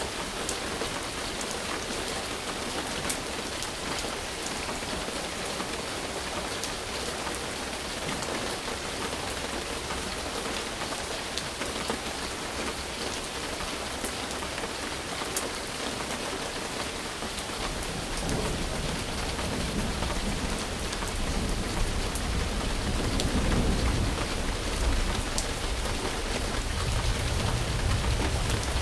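Steady rain falling on a surface, with fine ticks of individual drops. About two thirds of the way through, a low rumble of thunder sets in and grows louder.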